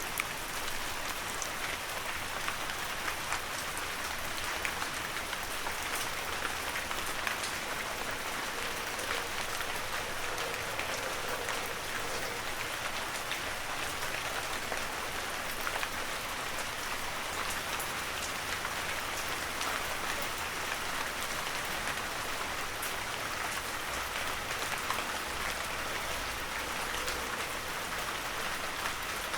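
Heavy rain falling steadily, a dense even hiss with scattered individual drops ticking on surfaces.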